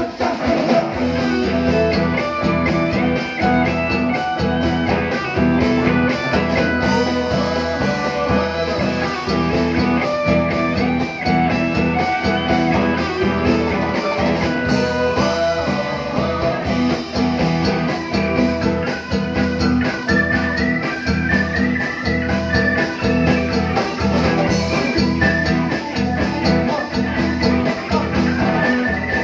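Live band music with a steady beat and several melodic instrument lines played together.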